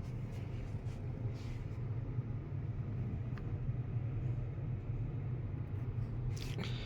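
Steady low fan hum, a constant drone that holds the same speed throughout.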